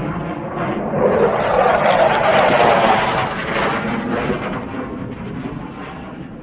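Jet fighter passing overhead at an air show, most likely a Thunderbirds F-16: a loud rushing jet noise with a sweeping, shifting tone. It swells about a second in, peaks after two to three seconds, then fades as the jet moves away.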